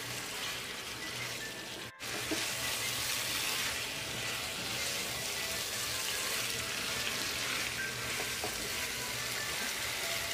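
Chicken curry sizzling in a nonstick kadai as a wooden spatula stirs it through the thick masala. The sound cuts out briefly about two seconds in, then carries on a little louder.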